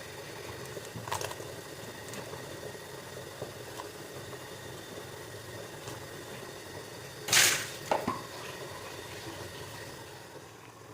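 A cooking pot bubbling steadily on the stove, with a few light clicks. About seven seconds in comes a short, loud hissing burst, followed by a couple of sharp knocks.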